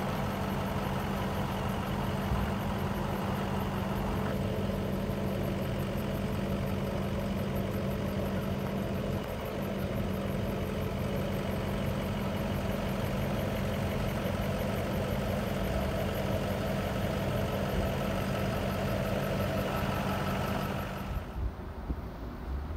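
Steady engine hum, like a motor idling, that cuts out near the end, leaving wind on the microphone.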